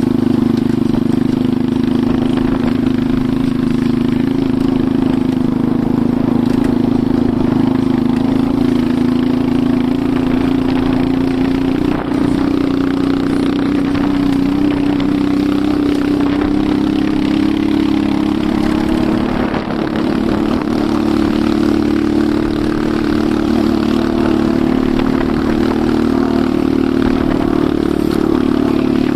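Enduro motorcycle engine running under way at a fairly steady speed, its pitch drifting gently up and down, with brief dips in loudness about 12 and 20 seconds in.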